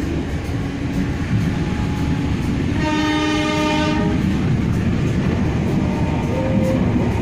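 Passenger train running with a steady rumble heard from inside the coach. The diesel locomotive's horn sounds once for about a second near the middle.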